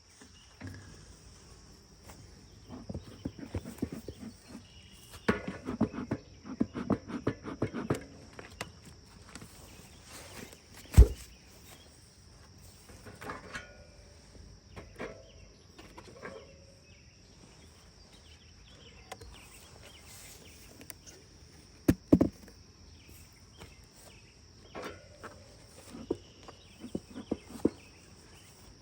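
A steady high insect trill, like crickets, runs under bursts of clattering and scraping from hive equipment being handled. Two sharp knocks stand out, about a third of the way in and again past two-thirds, the first the loudest.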